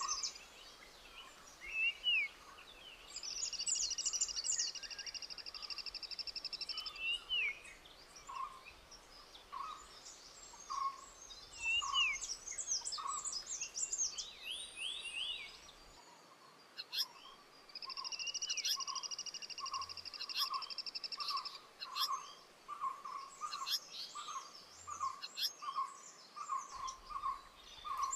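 Several wild birds calling: one repeats a short low note, irregularly at first and then steadily more than once a second in the second half; another gives two long buzzy trills, each about a second and a half; quick high chirps and whistles come throughout.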